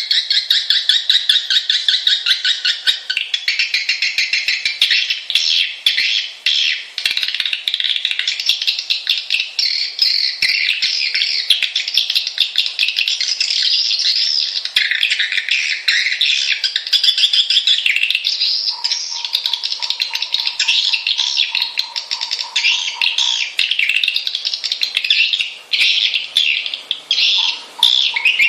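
Swiftlet lure call: a dense, unbroken chorus of swiftlet twittering and chirping, the lure and roosting call used to draw swiftlets into a nesting house. A steady tone near 1 kHz joins in about two-thirds of the way through and again near the end.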